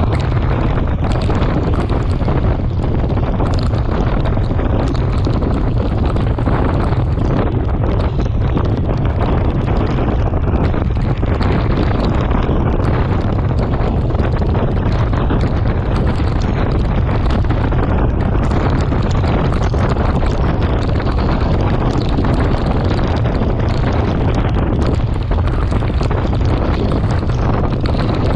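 Steady wind noise buffeting the microphone of a camera on a bicycle riding at speed, with a constant low rumble.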